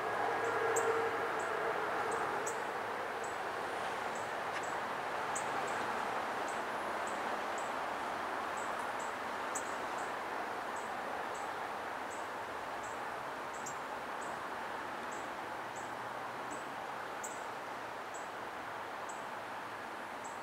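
SEPTA electric multiple-unit commuter train rolling away into the distance: its motor hum dies out in the first couple of seconds and its running noise slowly fades. Throughout, a short high chirp repeats about twice a second.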